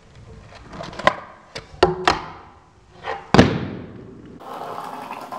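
Fingerboard clacking on a hard surface: a series of sharp pops and landings at irregular spacing, the loudest about three and a half seconds in.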